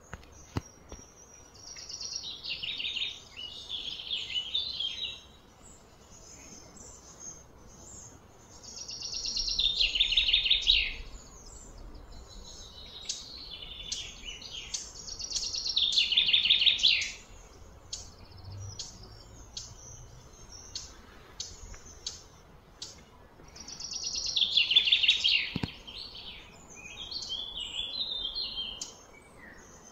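A bird singing: loud, rapid trilled phrases of about two seconds each, repeated every six to eight seconds, with short high chirps in between.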